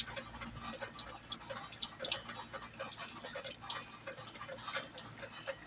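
Rainwater dripping during a storm: irregular drops and ticks, some with a small pitched plink, a few each second.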